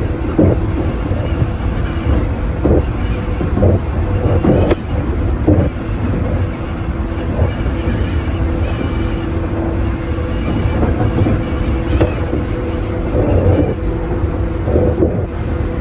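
Electric train running, heard from inside the passenger car: a steady low rumble with a constant hum and scattered knocks and rattles from the running gear.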